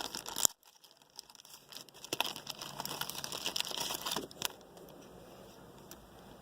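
Plastic crinkling and rustling as trading cards and their wrappers or sleeves are handled, with small clicks and taps. It is busiest from about two to four seconds in, then quieter.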